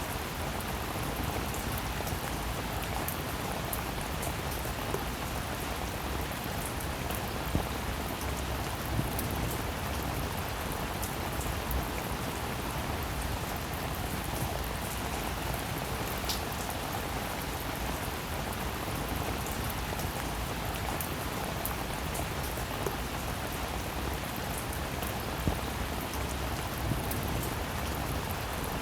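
Steady rain falling, a constant hiss of rainfall with scattered individual drops ticking and a few louder drips.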